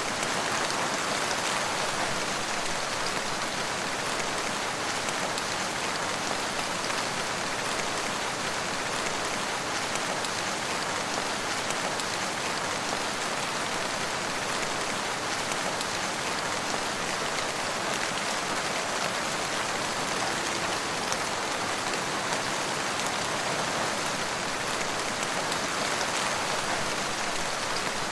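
Steady rain falling, an even hiss with the patter of drops on surfaces.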